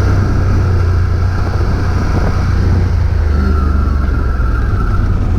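A vehicle engine running steadily with a deep, even hum.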